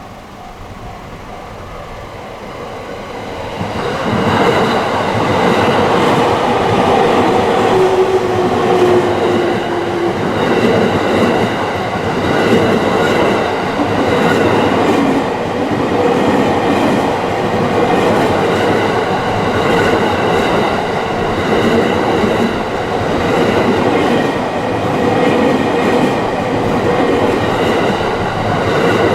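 A train running past a railway level crossing. It grows louder and arrives about four seconds in, then stays loud as the cars go by, while the crossing's warning bell keeps ringing steadily.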